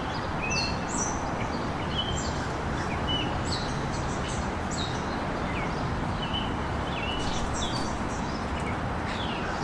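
Small birds chirping: many short, quick calls scattered throughout, over a steady outdoor background hiss.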